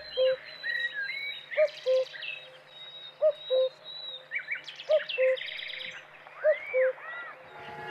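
Birds singing: a low two-note call, the first note a little higher than the second, repeated about every one and a half seconds, over higher chirps and trills from other songbirds.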